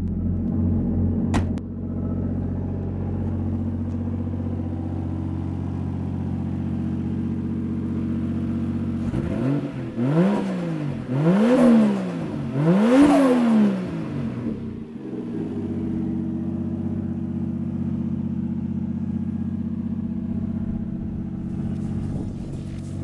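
Toyota 1JZ-GTE VVTi 2.5-litre turbocharged straight-six, swapped into a Mazda RX-7, idling steadily. About halfway through it is revved three times in quick succession, each rev rising and falling, before it settles back to idle. There is a sharp click about a second in.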